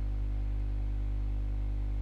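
A steady low electrical hum with a buzz of overtones, unchanging throughout, with faint hiss over it: mains hum picked up in the recording.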